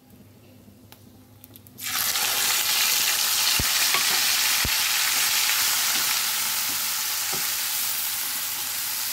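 Raw onion paste dropped into hot oil in a kadai, breaking into loud, steady sizzling about two seconds in as it frys and is stirred with a spatula.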